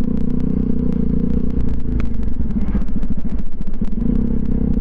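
Pulsar NS200's single-cylinder engine running at a steady cruise through an aftermarket twin-pipe exhaust, heard from the moving motorcycle. Many short crackles and knocks run over the engine note throughout.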